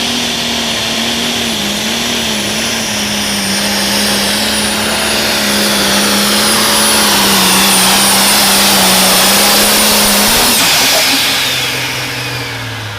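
Pro stock pulling tractor's turbocharged diesel running flat out down the track: a steady engine note under a high, steady turbo whistle. About ten seconds in, the engine is shut off and the turbo whistle falls in pitch as it spools down.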